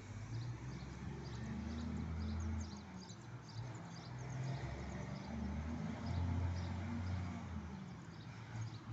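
Scania truck's diesel engine running, its low note rising and falling, with short high-pitched chirps repeating a few times a second over it.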